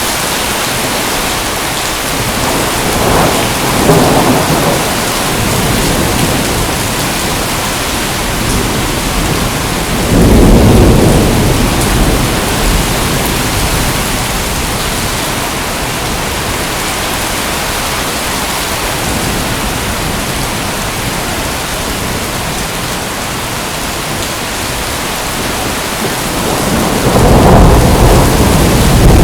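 Steady rain falling, with thunder rumbling three times: about three seconds in, around ten seconds in, and again near the end.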